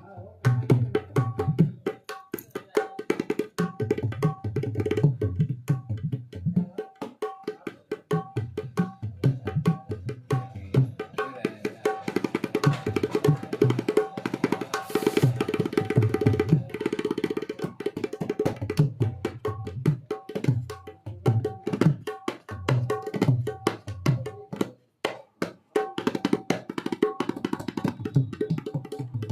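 Dholak played solo by hand: quick strokes mixing deep bass booms with ringing treble slaps, a fast dense roll in the middle, and a brief pause a few seconds before the end.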